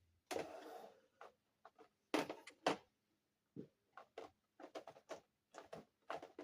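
Small plastic dollhouse furniture pieces and their packaging being handled: a short rustle, then a run of light, irregular clicks and taps.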